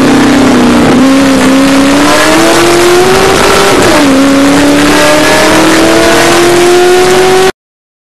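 Honda S2000 race car's F20C four-cylinder engine at full throttle, heard from the cockpit: the revs climb, drop with an upshift about four seconds in, then climb again. The sound cuts out suddenly near the end.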